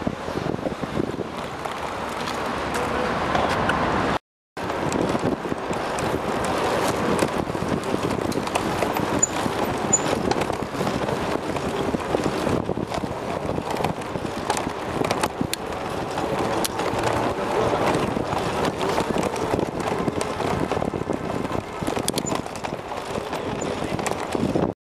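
Wind rushing over the microphone of a camera riding on a bicycle at speed, with street traffic noise and many small knocks and rattles from the bike over the pavement. The sound drops out completely for a moment about four seconds in.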